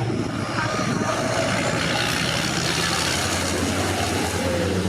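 Diesel engines of racing trucks running on the circuit, a steady low drone with a broad rushing noise over it.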